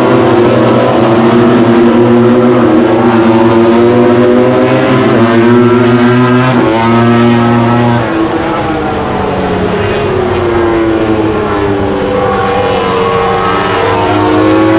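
MotoGP racing motorcycles' four-cylinder engines screaming at high revs, several bikes at once with pitches sliding up and down through gear changes and passes, easing slightly about eight seconds in.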